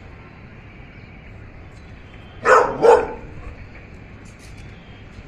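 Golden retriever barking twice in quick succession, two loud barks about half a second apart.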